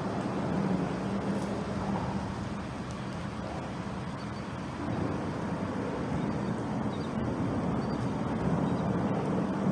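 Steady rumble of passing road traffic, easing a little in the middle and building again near the end.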